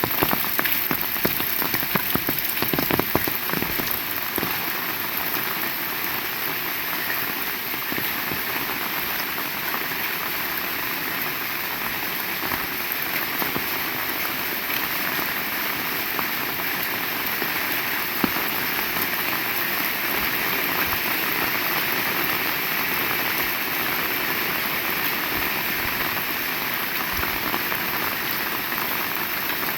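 Heavy rain falling steadily, a dense even hiss of rain on surfaces; for the first few seconds many close drops strike with sharp taps, then it settles into a smoother rush.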